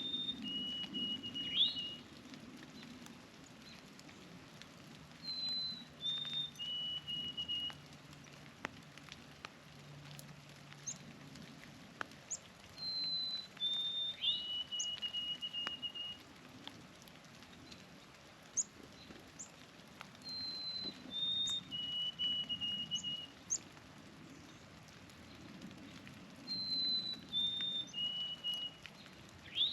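White-throated sparrow singing its clear whistled song: a couple of steady high notes stepping down to a longer, lower held note. The song repeats about every seven seconds, with short, sharp high chip notes between the songs.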